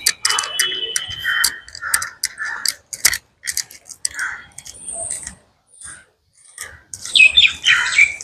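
Birds calling and chattering: a busy run of short, sharp calls and clicking notes, with a denser burst of calls near the end.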